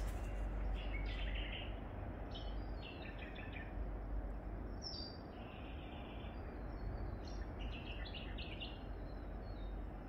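Small birds chirping in several short runs of high notes, over a steady low background noise.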